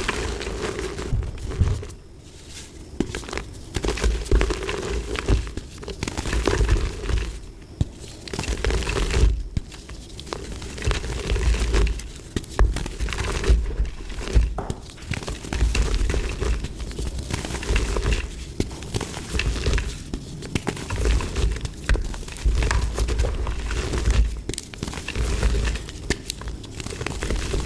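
Dried mud being crushed and crumbled in a run of irregular crunches and crackles, with repeated low thuds.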